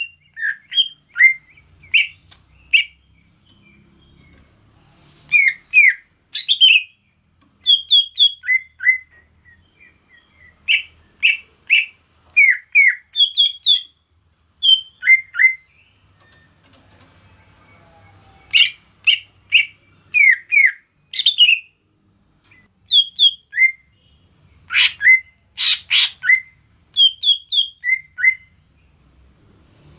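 Cucak ijo (greater green leafbird) singing: quick phrases of short, sharp whistled notes, separated by brief pauses, over a steady high hiss.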